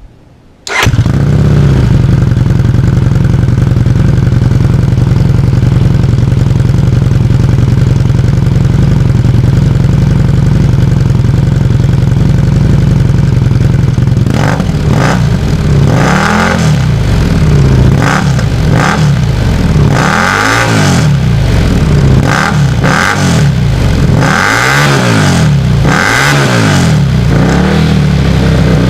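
Motorcycle engine exhaust through a muffler with an elbow joint and a dB killer baffle. It idles steadily, then from about halfway through it is revved in a series of short blips.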